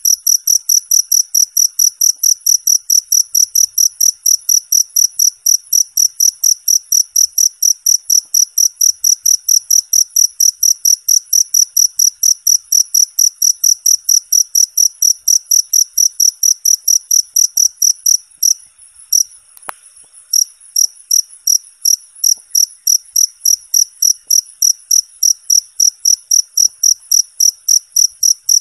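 Cricket chirping in a fast, even, high-pitched pulse, about four chirps a second, stumbling briefly about two-thirds of the way through before settling back into rhythm.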